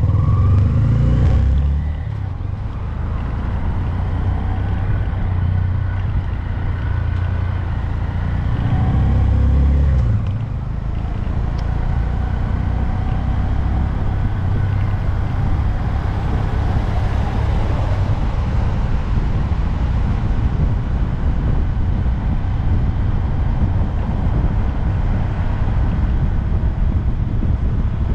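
2022 Honda Grom's small single-cylinder engine running under way, with wind rushing over the microphone. It pulls harder near the start and again about eight to ten seconds in, easing off after each, then runs at a steady cruise.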